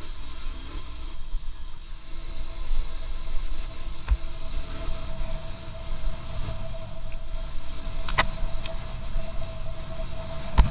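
Low rumble of a moving vehicle, with a steady tone coming in about four seconds in and a few sharp knocks or clicks, the loudest near the end.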